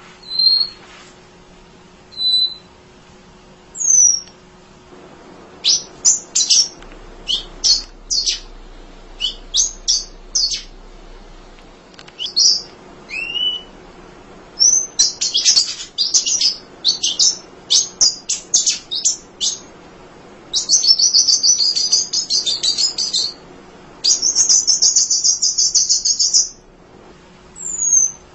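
An emprit (munia) singing: thin, high downslurred calls at first, then quick runs of sharp chips, building to two long buzzy trills of a few seconds each in the last third.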